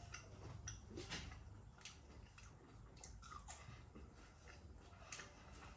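Faint chewing of a Cajun fry with the mouth closed: a few soft, wet mouth clicks scattered through.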